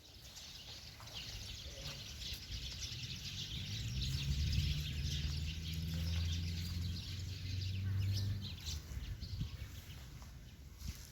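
Outdoor ambience with small birds chirping. A low steady hum rises in the middle and fades out about two-thirds of the way through.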